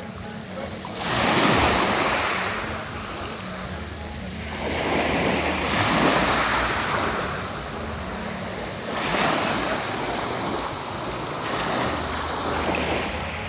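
Black Sea waves breaking and washing in, the hiss of surf swelling four times a few seconds apart.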